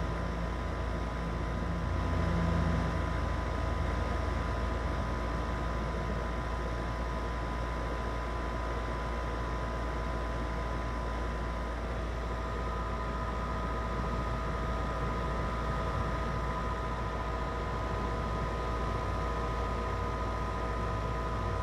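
Goodman 4-ton R-410A condensing unit running steadily: compressor hum and condenser fan noise with a few steady whining tones, while the low-charged system is being topped up with refrigerant.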